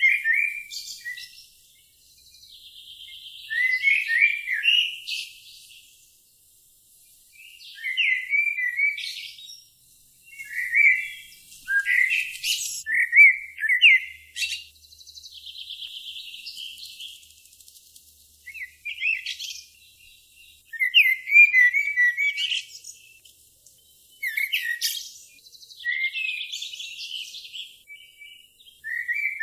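A songbird singing in short phrases of quick chirps and glides every few seconds, with buzzy trills between phrases.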